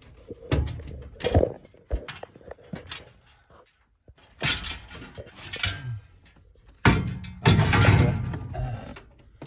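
Irregular knocks, thuds and clicks of things being handled, with short bursts of rustling or scraping about halfway through and a longer, louder one near the end.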